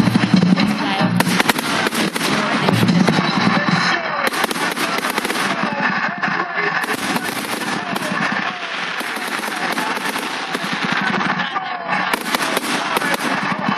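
Fireworks going off in a dense, rapid crackle of many small sharp bangs, with music playing underneath.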